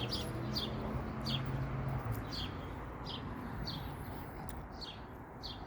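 A songbird chirping, one short falling chirp repeated about once a second, over a low steady hum.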